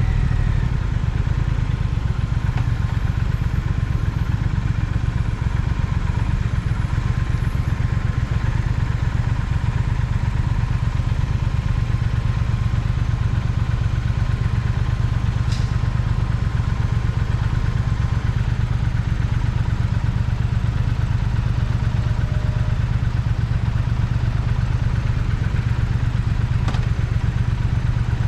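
Triumph Speed Twin's parallel-twin engine running steadily at low revs, with no marked rise or fall in engine speed.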